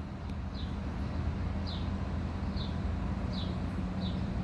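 Steady low mechanical hum, with a bird repeating a short, high, falling chirp about once a second.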